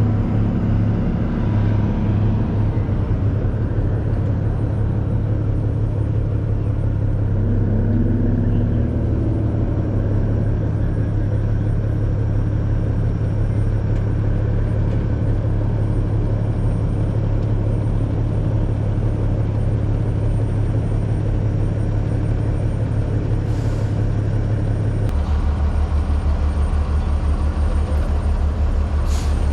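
Heavy truck engine running steadily, a constant low drone, its note dropping slightly about 25 seconds in.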